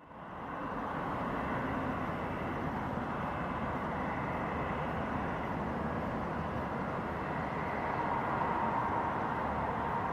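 Airbus A340-300's four CFM56 jet engines on approach: a steady rush of jet noise with a faint whine, growing a little louder about eight seconds in.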